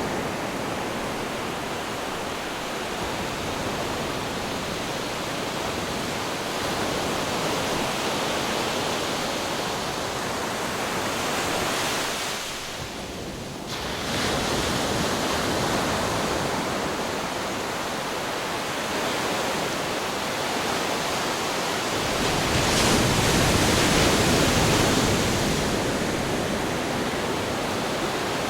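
Ocean surf crashing and washing over rocks, a steady roar of churning water. It eases briefly partway through, and a bigger, deeper wave surges in after about twenty seconds.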